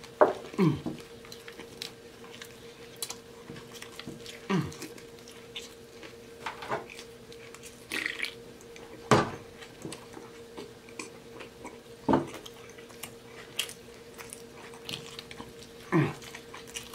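Close-miked eating: biting into and chewing a burger with wet smacking and scattered sharp mouth sounds, and a sip from a soda can about eight seconds in.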